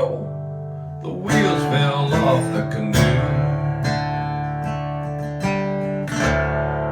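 Acoustic guitar strumming and picking an instrumental break in a country song, with strums about every second or two and a steady bass underneath.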